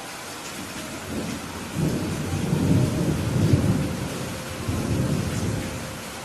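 Steady rain with a low rumble of thunder that builds about a second in, peaks in the middle and dies away near the end.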